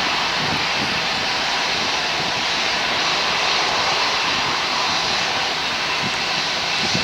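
Jet engines of a Boeing 767-300ER airliner running, heard as a steady, even rushing noise with a faint high whine through it.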